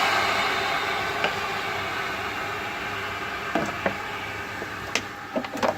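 Hiss of steam from water just poured onto the hot stones of a wood-fired sauna stove, dying away steadily. Sharp crackles and clicks come in during the second half.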